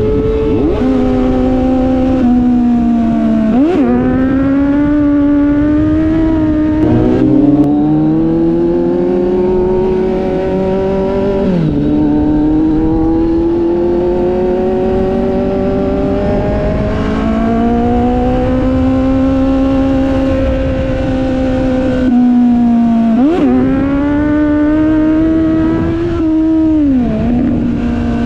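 Motorcycle engine under way, its note climbing steadily through each gear and dropping back at each gear change, several times. Wind noise on the microphone runs underneath.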